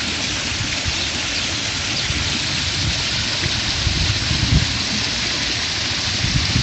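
Steady rush of falling water, with low rumbles of wind on the microphone about four seconds in.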